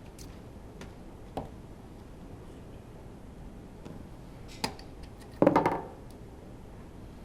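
Tools and metal engine parts being handled during an engine teardown: a few light clicks, then a louder short clatter about five and a half seconds in.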